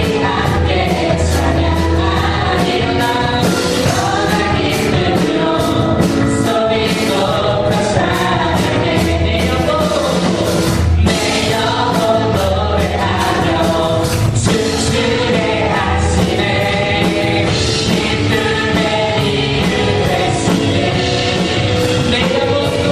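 A praise team's voices singing a Korean worship song together over a full band with a steady drum beat.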